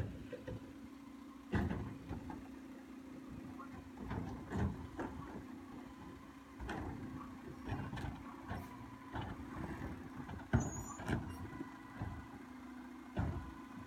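Garbage truck running with a steady hum, broken by irregular clanks and bangs, about seven of them, the loudest about one and a half seconds in and near the ten-second mark.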